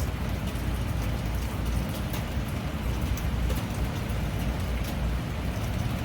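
Steady rain falling, with many separate drop ticks over an even hiss and a low rumble underneath.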